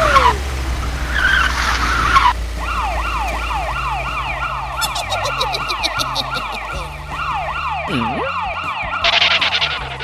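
Police siren sound effect, a rising sweep that repeats quickly, about two to three times a second, over a steady low rumble of a vehicle engine. A hissing rush fills the first two seconds, and a short burst of noise comes near the end.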